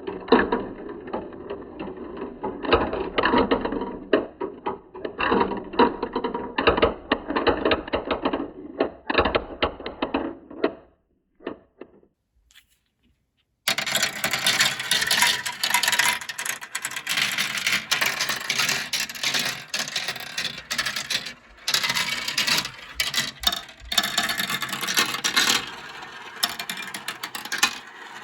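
Many glass marbles rolling and clattering down plastic marble-run slopes, a dense rattle of small clicks. It dies away about eleven seconds in, stops for a couple of seconds, then starts again brighter and sharper.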